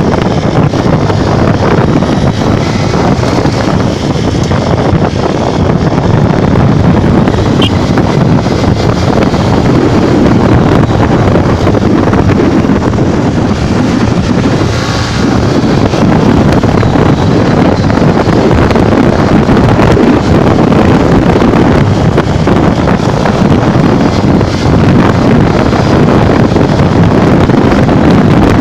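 Loud, steady wind buffeting on the microphone from riding a Honda Bros 150 motorcycle at speed.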